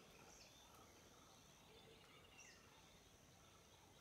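Near silence: quiet outdoor ambience with a few faint, short bird chirps about once a second.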